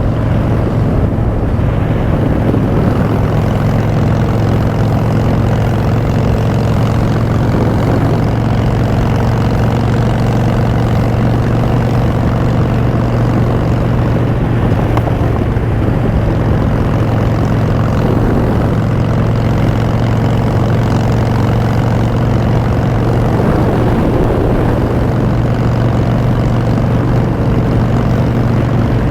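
Harley-Davidson Dyna Street Bob's V-twin running through Vance & Hines Short Shots exhaust at a steady cruising speed, a loud, even drone.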